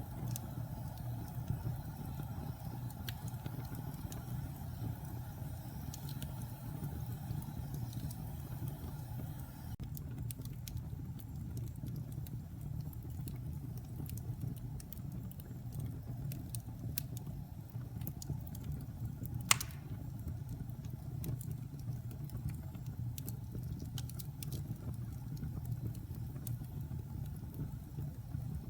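Logs burning in a fireplace: a steady low rumble of the fire with scattered small crackles and pops, and one sharp, louder pop about two-thirds of the way through.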